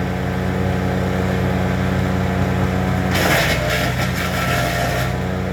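Honda-powered wood chipper running steadily, with a harsh, noisy burst from about three seconds in to about five seconds in as material is fed through and chipped.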